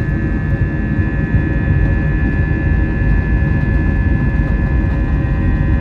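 Wizz Air jet airliner's engines running steadily: a heavy low rumble with a steady high whine held at one pitch.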